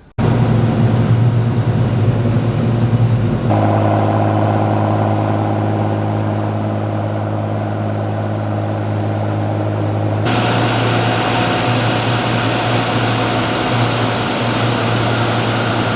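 Boat engine running steadily, a continuous hum. The sound changes abruptly twice, about three and a half and ten seconds in, as one stretch of running gives way to another.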